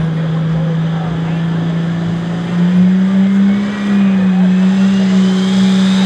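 Dodge pulling truck's engine running hard at high revs under load during its pull, its pitch stepping up a little about two and a half seconds in, with a thin whine rising steadily through the second half.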